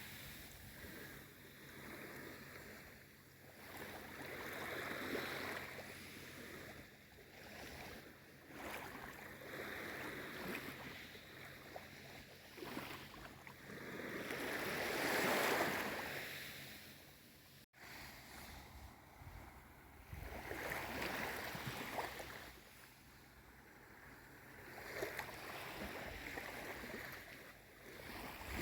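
Small waves on a calm sea, washing in soft swells of water noise every few seconds; the biggest swell comes about halfway through.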